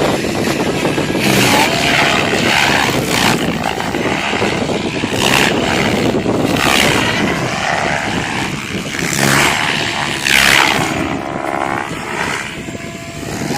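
SAB Goblin 700 electric RC helicopter in flight, its main rotor blades whooshing with a motor whine, swelling loudly and falling away again several times as it passes back and forth.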